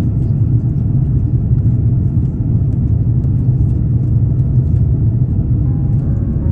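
Steady low rumble heard inside the cabin of a Condor Airbus A330neo airliner, even and unchanging.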